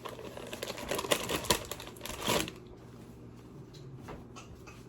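Rustling and crinkling of kitchen packaging being handled, with a quick run of light clicks and knocks, over the first two and a half seconds; then it goes quieter.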